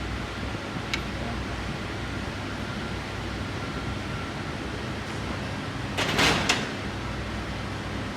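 Steady background hum from a fan, with a sharp click about a second in and a short rattling scrape about six seconds in, as tools and parts are handled during engine reassembly.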